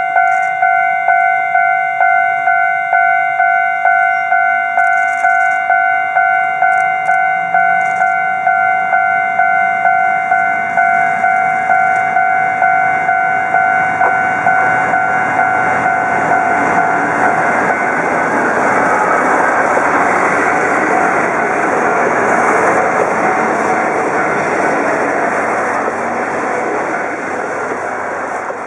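A railway level-crossing bell rings steadily at about one and a half strikes a second while a Kominato Railway KiHa 200 diesel railcar approaches. About halfway through, the bell gives way to the railcar's engine and wheels growing louder as it passes close, and the train noise eases off near the end as it slows into the station.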